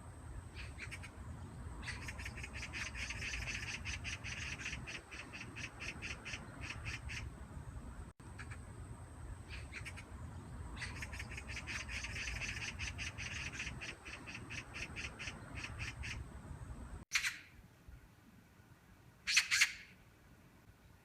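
Magpies chattering in long runs of rapid, harsh rattling calls. Then two single harsh calls come about two seconds apart.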